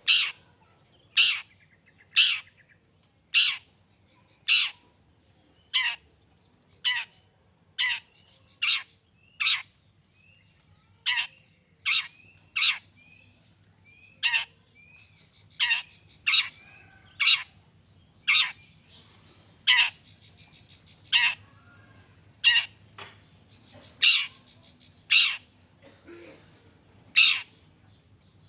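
Long-tailed shrike giving short, loud, harsh calls, about one a second, with faint softer chirps between some of them.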